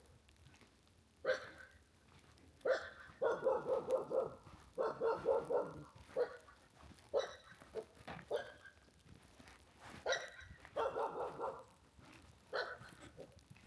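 A dog barking repeatedly: single barks alternate with quick runs of several barks, with short pauses between.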